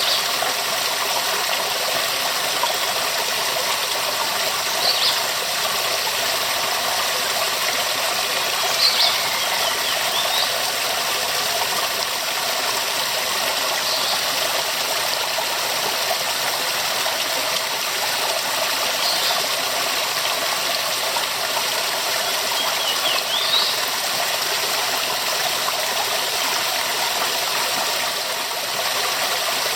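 Waterfall rushing steadily, an even hiss of falling water, with a few short high chirps over it every four or five seconds.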